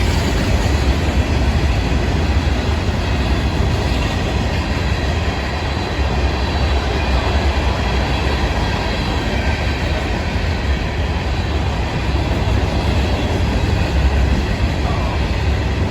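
Florida East Coast Railway freight train rolling past at close range: a steady, loud rumble and rattle of wheels on the rails.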